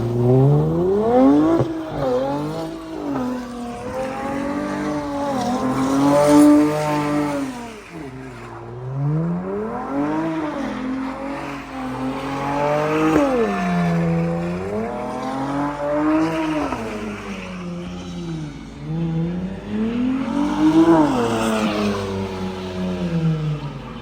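A car engine revving hard over and over, its pitch climbing and dropping every few seconds.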